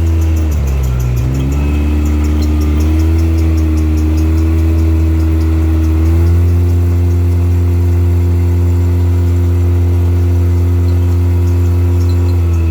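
A vehicle engine running steadily under way; its pitch dips briefly about a second in, then comes back up and holds.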